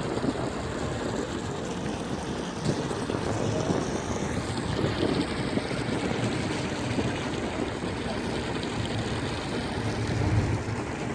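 Sportfishing boat's engine running steadily under a wash of water and wind noise.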